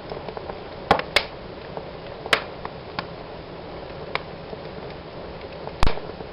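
Wood fire burning in a fireplace: a steady low hiss with sharp crackles and pops at irregular moments, the loudest pop near the end.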